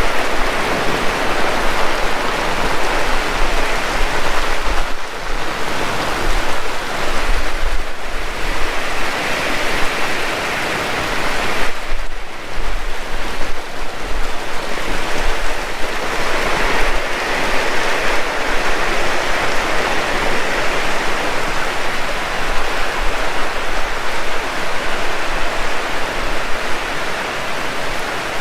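Heavy rain pouring steadily, a dense hiss that eases briefly a few times.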